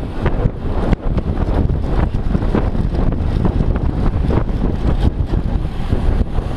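Heavy wind buffeting on the microphone of a camera carried on a moving ride, with many irregular small knocks and rattles.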